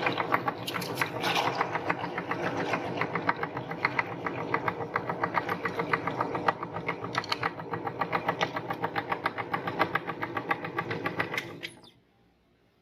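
Electric meat grinder running, a steady motor sound with a fast, even ticking; it stops abruptly near the end.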